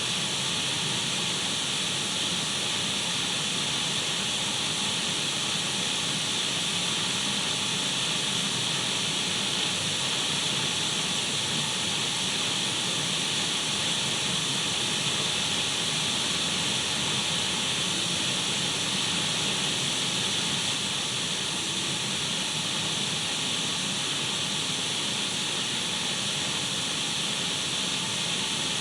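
Radio static: a steady, even hiss of an untuned radio, brightest in the upper middle and unchanging throughout.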